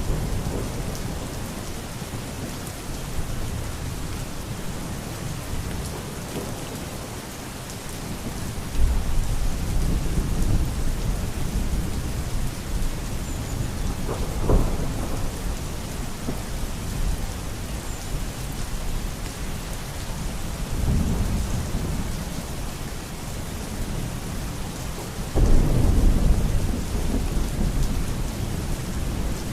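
Steady heavy rain falling, with rolls of thunder rumbling low under it; the rumbles swell about a third of the way in, again near the middle, and loudest near the end.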